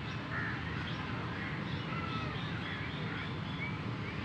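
Birds calling: a string of short chirps and whistled notes over a steady low background rumble.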